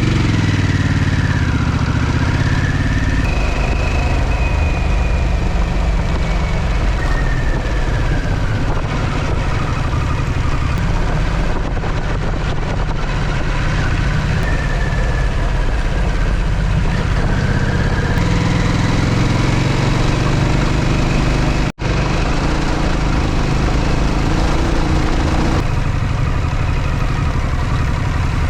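Harley-Davidson motorcycle engine running while riding, with steady wind and road noise and the engine pitch rising and falling slowly with the throttle. The sound drops out for an instant a little over two-thirds of the way through.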